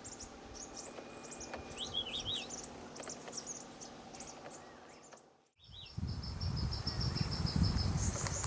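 Tawny-breasted wren-babbler giving short, fast warbling phrases, once about two seconds in and again just after a brief drop-out near the middle. Steady high chirping of insects runs underneath. A low rumbling noise comes in for the second half.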